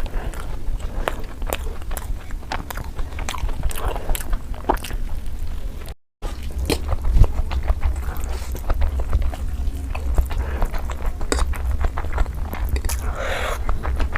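Close-miked mukbang eating: biting and chewing with many short crunchy, crackling clicks, over a steady low hum. The sound cuts out briefly about six seconds in.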